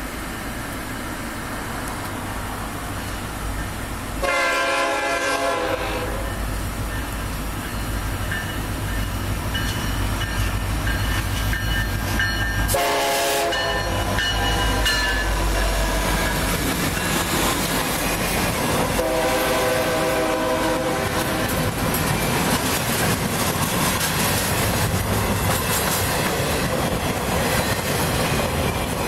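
Freight train led by a pair of EMD SD70M-2 diesel locomotives, its air horn sounding three times: a blast about four seconds in, a shorter one as the locomotives pass, and a longer, softer one a few seconds later. Steady rumble throughout, then a string of empty well cars rolling by with wheel clatter.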